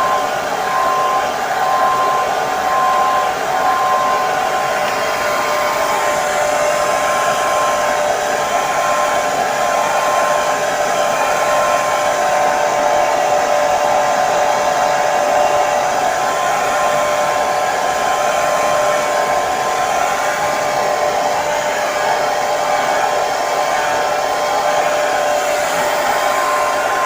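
Hand-held hair dryer (phon) running continuously: a steady airflow rush with a constant motor whine.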